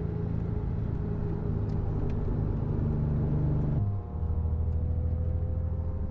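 A Porsche Boxster S 3.2-litre flat-six engine running at steady revs. Its pitch drops suddenly about four seconds in, then slowly climbs. The engine is reluctant to rev because a main bearing is starting to break up.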